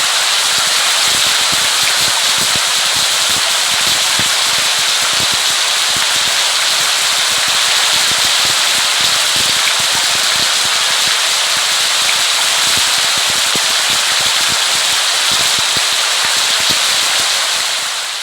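Steady heavy rain, a dense hiss with close crackling patter of drops, fading out near the end.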